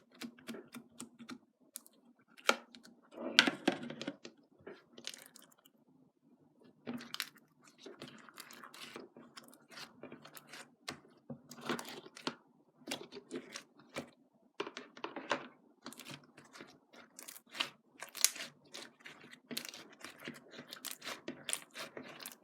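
Close-miked crunchy chewing: irregular crisp clicks and crackles, a few louder crunches among quieter ones.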